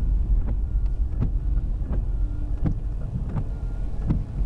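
Storm wind and rain on a truck, heard from inside the cab as a heavy, steady low rumble, with a sharp knock about every 0.7 seconds.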